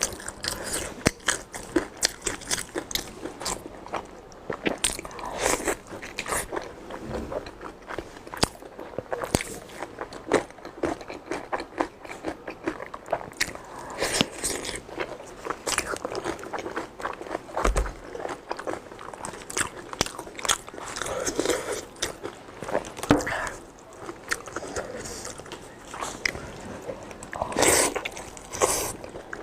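Close-miked eating of pork knuckle skin: biting and chewing, with a dense run of short, sharp clicks and crunches.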